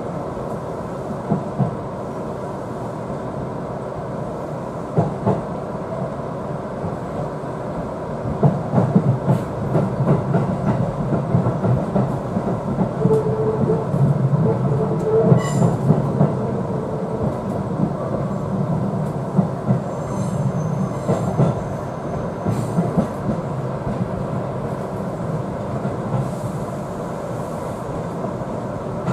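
Seibu 4000 series electric train running, heard from inside the driver's cab: a steady rumble of wheels and running gear with rail-joint clatter. From about eight seconds in it grows louder and rougher, rattling over the points with brief squealing tones, then settles back to a steadier run.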